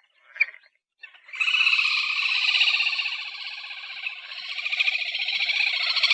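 Australasian grebe (titihan telaga) giving its long, rapid trilling call. A short chirp comes first, then the trill starts about a second in and runs on for several seconds.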